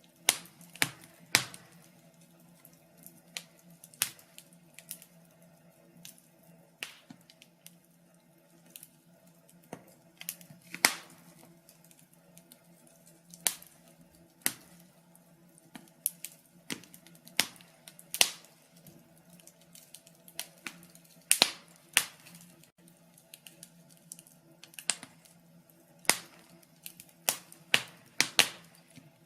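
Wood fire in a fireplace crackling, with sharp pops at irregular intervals, a few of them loud, over a faint steady low hum.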